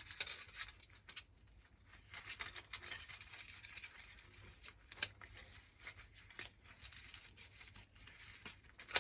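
Faint clicks and scraping of small parts being handled: a lawnmower recoil starter's coiled spring and pulley being worked back into the starter housing. Small ticks come scattered throughout, with a longer stretch of scraping about two seconds in.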